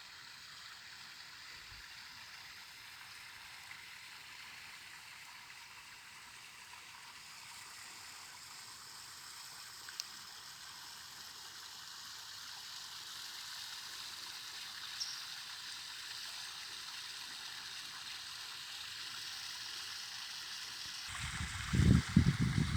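A steady rushing hiss that slowly grows louder, with a single sharp click about ten seconds in and loud, low, uneven rumbling near the end.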